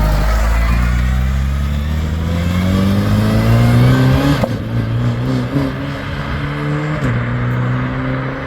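BAC Mono R's four-cylinder engine accelerating hard, its pitch rising steadily, then dropping at a gear change about halfway through and again briefly near the end.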